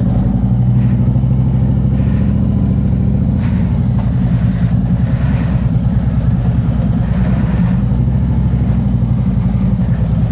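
Harley-Davidson Road King Special's V-twin engine running steadily as the motorcycle sets off, with brief gusts of hiss now and then.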